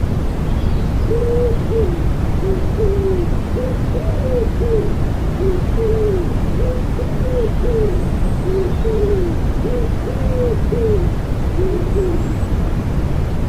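Wood pigeon cooing in a long run of soft, repeated hooting phrases over a steady low white-noise rush.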